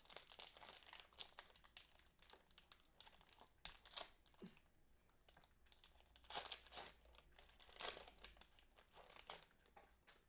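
Cellophane wrappers of football trading-card cello packs crinkling and tearing open, with louder bursts of crackling about four, six and a half and eight seconds in.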